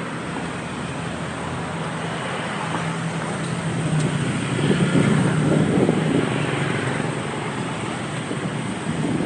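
Motorcycle engine running under way in street traffic, with wind rushing over the microphone; it gets louder for a couple of seconds in the middle.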